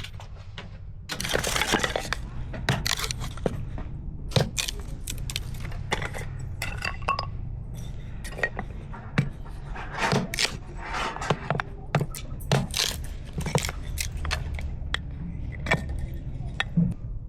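Dishes and utensils clinking and scraping, many irregular sharp clinks over a steady low rumble.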